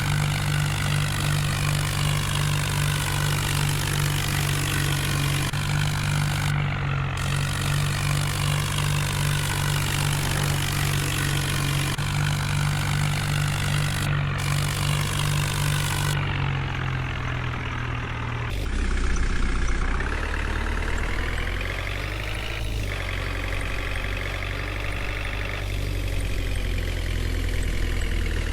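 Tractor engine running steadily, its low note dropping to a deeper pitch about two-thirds of the way through.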